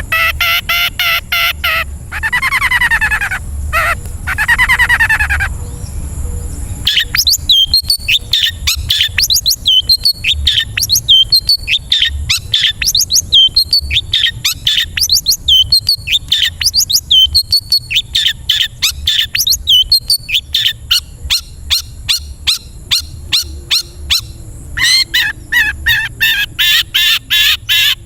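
Recorded songbird calls of the kind used to train long-tailed shrikes. First come a few seconds of chattering calls that slide up and down in pitch. Then a long, fast run of sharp repeated chip notes, several a second. A harsher, buzzy rattle follows near the end.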